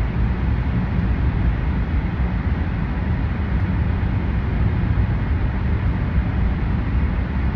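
Steady car driving noise heard from inside the cabin: engine and tyre rumble, heavy in the low end, while driving through a road tunnel.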